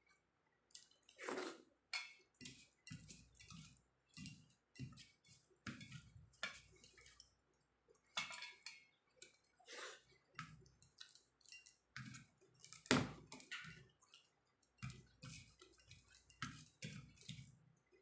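Close-miked eating sounds: wet chewing and mouth smacks with irregular soft clicks and squelches, from a mouthful of rice and jackfruit curry.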